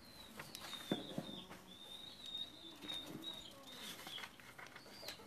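Faint background bird calls: a thin, wavering high whistle that carries on throughout, with a few lower soft call notes and scattered soft clicks.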